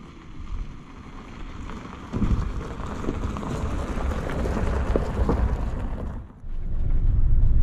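Van tyres crunching and popping over gravel and rocks on a rough dirt road, with many small clicks. Near the end this gives way to a steady low vehicle rumble.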